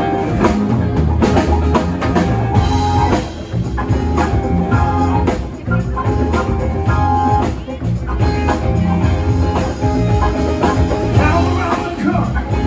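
Live rock band playing an instrumental intro: drum kit with bass drum, bass and guitar, no vocals yet.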